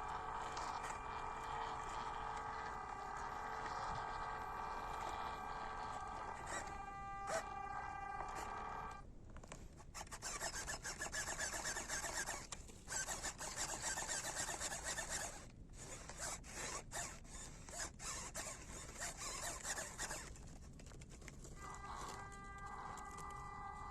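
Small electric motor and gearbox of a 1/16 scale RC crawler truck whining at a steady pitch. About nine seconds in the whine gives way to a long stretch of rough hissing and crackling, in broken spells, like tyres scrabbling over loose ground. The whine returns near the end.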